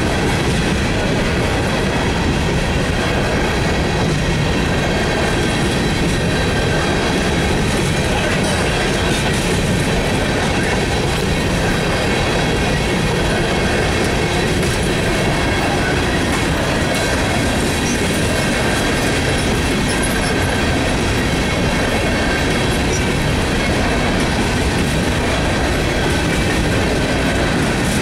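Loaded coal hopper cars rolling past on jointed or welded rail: a steady rumble and clatter of steel wheels on the track. A thin high squeal from the wheels is held throughout.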